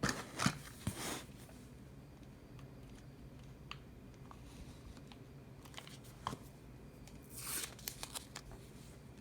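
Stickers and planner pages being handled: scratchy rustles and light taps in the first second, a few soft scattered clicks, and another brief rustle about seven and a half seconds in.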